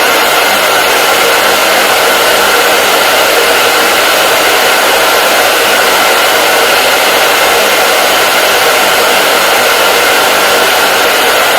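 Hair dryer running steadily: a constant loud rushing noise with a faint steady whine in it, unchanging throughout.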